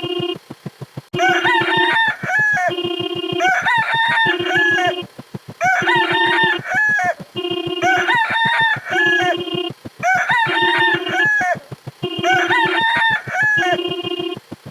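Rooster crowing sound effect, looped so that a crow comes about every two seconds, six times in all. Short steady tones fill the gaps between crows, over a fast run of low clicks.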